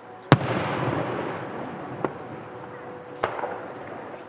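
Aerial firework shells bursting: a loud bang about a third of a second in with a long fading tail, a smaller pop about two seconds in, and another bang about three seconds in.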